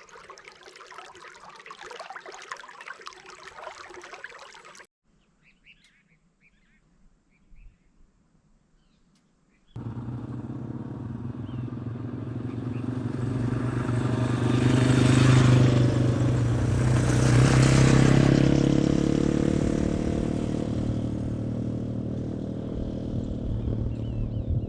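Single-cylinder Yamaha dual-sport motorcycle engine running steadily, growing louder to two peaks and then easing off. Before it, a steady hiss gives way to a quiet stretch with faint bird chirps.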